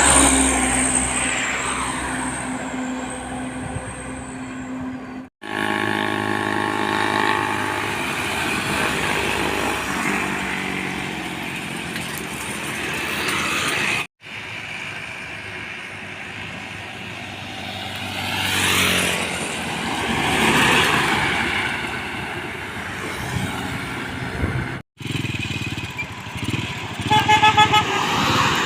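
Trucks and other road vehicles driving past, their engines rising and falling as they pass, with horn toots: a long held horn at the start and a quick string of short toots near the end. The sound breaks off abruptly three times between clips.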